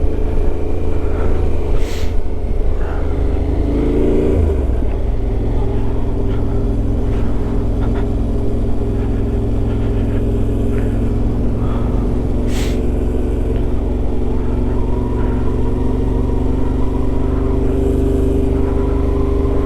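Yamaha Ténéré 700's parallel-twin engine running at a steady cruise, heard from the rider's seat over a low road-and-wind rumble. The engine note shifts about four seconds in, then holds steady.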